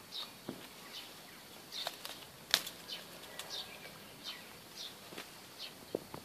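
A bird repeating a short, high, slightly falling chirp about eight times, with faint scattered clicks between.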